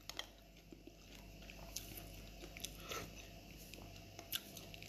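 Faint chewing of boiled corn kernels, with a few soft clicks scattered through.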